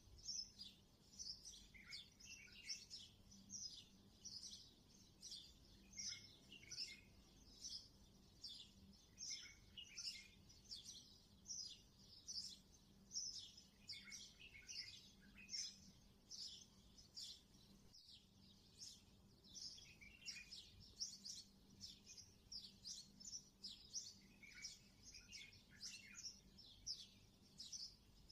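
Faint birds chirping: many quick, short calls sweeping downward, overlapping continuously, over a low steady hum.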